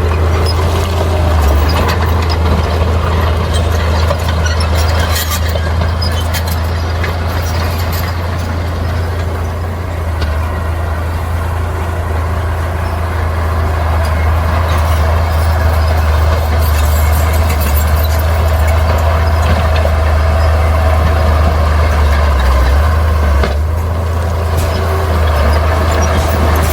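Bulldozer's diesel engine running steadily under load, a continuous heavy low drone, with a few short knocks and clanks over it.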